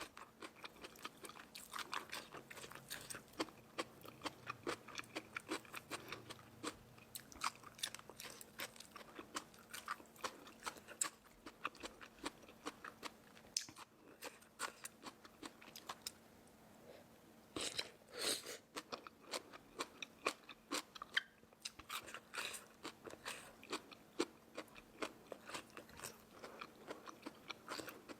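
Close-up eating of crispy food: a steady run of sharp bites and crunching chews, with a louder cluster of crunches about eighteen seconds in.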